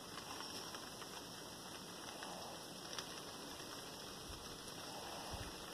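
Steady rain falling, with many small drop ticks and one sharper tap about halfway through. A couple of low bumps come near the end.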